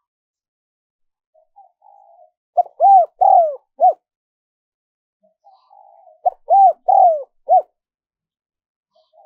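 Spotted dove cooing: two phrases, each a soft murmuring lead-in followed by four loud, arched coos, the second phrase a few seconds after the first.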